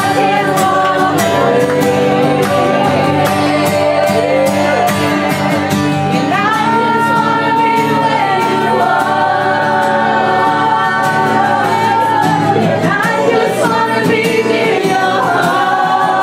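Live worship music: a group of voices singing a sustained melody over steady keyboard or pad chords.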